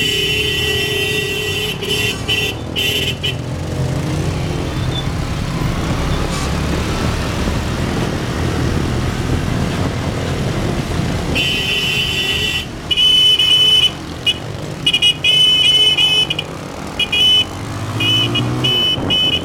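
Motorbike engines running steadily, with a horn held for about three seconds at the start and, in the second half, a string of short horn toots.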